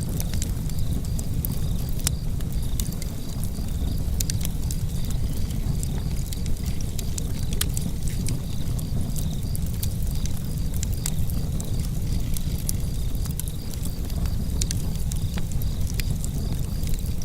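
Wood fire burning in a fireplace: a steady low rumble of the flames under frequent, irregular sharp crackles and pops from the burning logs.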